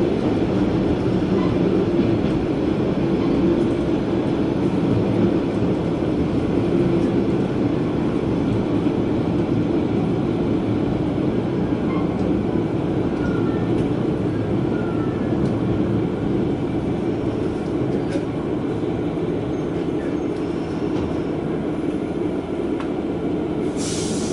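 KiHa 120 diesel railcar running steadily, heard from inside the cabin: a low engine drone mixed with wheel and rail noise.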